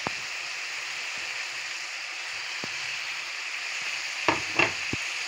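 Chicken, green capsicum and cabbage sizzling steadily in a hot metal pan, with a metal spatula clicking and scraping against the pan a few times, mostly near the end.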